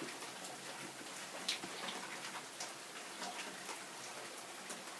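Heavy rain pouring down steadily, with scattered sharp ticks of individual drops landing close by, the loudest about one and a half seconds in.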